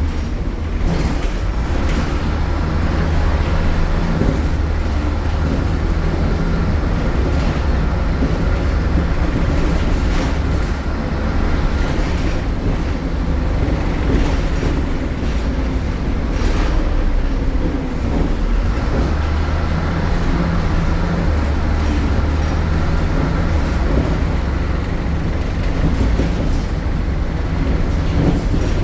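MAN A76 Lion's City city bus's diesel engine running loudly under way, a steady low drone whose level shifts a little now and then.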